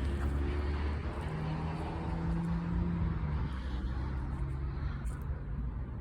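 Outdoor air conditioner condensing units running: a steady low compressor hum under the rushing of the condenser fans, the hum's pitch shifting slightly about a second in and again past the middle.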